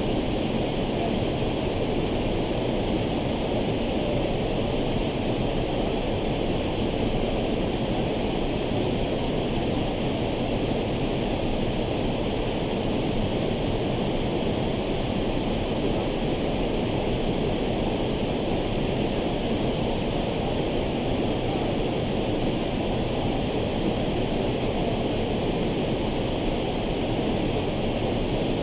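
Waterfall's steady roar of falling water, an unbroken rushing with no change in level.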